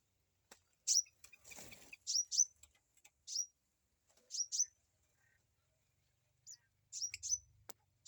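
Small cage birds chirping: short, high chirps that sweep downward, coming in quick twos and threes. A brief rustle comes about a second and a half in, and a sharp click near the end.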